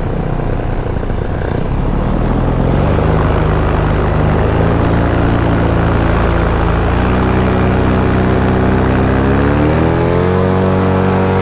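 Paramotor engine and propeller running in flight, the throttle opened in steps so the pitch rises about a third of the way in, again past halfway, and once more near the end.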